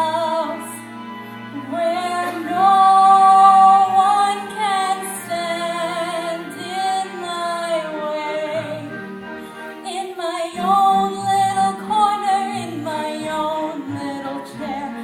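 A woman singing a musical-theatre song over instrumental accompaniment, holding long notes.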